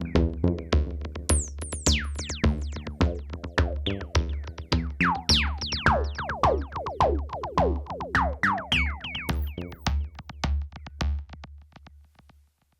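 Electronic synth jam: a drum-machine beat with a steady low kick under synthesizer chords and bass, from a Novation Mininova and Behringer Grind with a Korg Volca Drum. Quick falling zap-like synth sweeps pile up through the middle, then the music fades and stops near the end.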